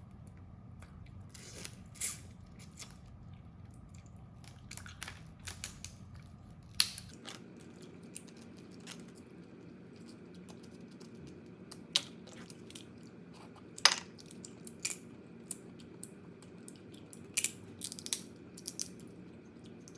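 Eating crab: shells cracking and being picked apart, with chewing, heard as scattered sharp cracks and clicks over a steady low hum.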